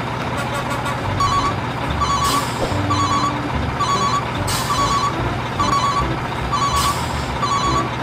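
A reversing-alarm beeper sounding short, evenly spaced beeps a little over one per second, over background music.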